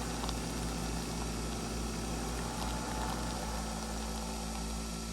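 Nespresso Vertuo Plus brewing an espresso: the motor spinning the capsule and the water pump run with a steady hum while coffee dispenses, the low hum shifting slightly about three seconds in.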